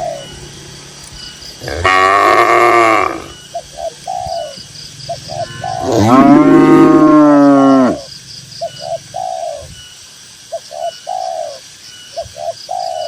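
Cattle mooing: two long, loud moos, the first about two seconds in and the second, the loudest, from about six to eight seconds. Between them a bird gives short repeated cooing calls in groups of two or three.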